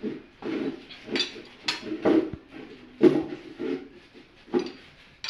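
Irregular metallic clinks and knocks of motorcycle engine parts and hand tools being handled during engine assembly, about eight in five seconds.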